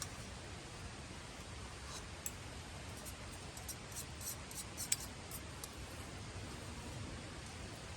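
Wood campfire crackling: a run of small sharp pops and snaps, the loudest a little before the five-second mark, over a steady low hiss.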